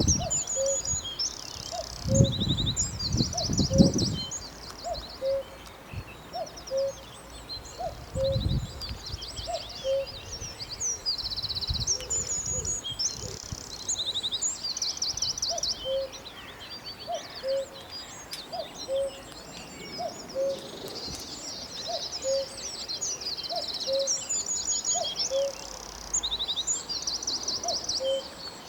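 Songbirds singing in a forest, with bright high trills and quick note runs repeating every few seconds. A soft low call repeats about once a second underneath. A few low rumbles come in the first seconds and again about a third of the way through.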